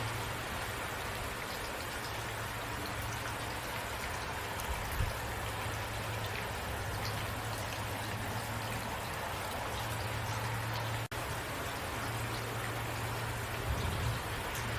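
Steady rain falling, a dense even hiss of drops with scattered individual drop ticks and a low rumble underneath that swells and fades. The sound cuts out for an instant about eleven seconds in.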